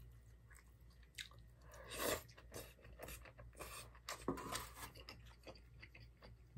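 Close-up chewing of a mouthful of lettuce wrapped round stir-fried vegetables and meat, in irregular bites and chews, the loudest about two seconds in.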